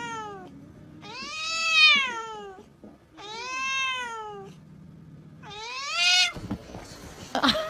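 A domestic cat meowing, three long drawn-out meows a second or so apart, each rising and then falling in pitch, with a few short scuffling clicks near the end.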